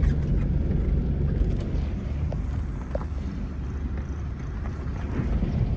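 Low, steady rumble of a vehicle's engine running as it drives over rough ground.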